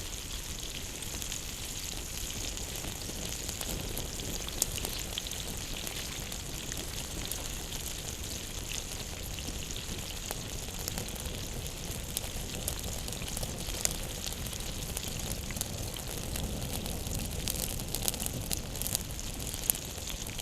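Open wood fire crackling steadily, with sharp ticks and a few louder pops.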